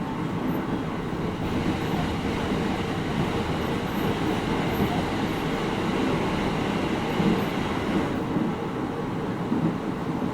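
Running sound inside the cabin of a JR East 701-series 5500 electric multiple unit travelling between stations: a steady rumble of wheels on rail and car-body noise.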